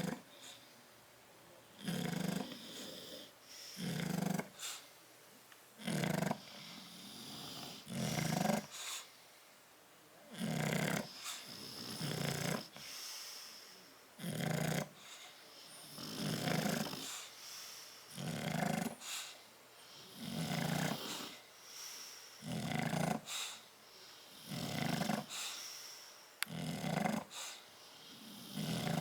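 Sleeping bulldog snoring in a steady rhythm, about one loud snore every two seconds, with softer breathing between the snores.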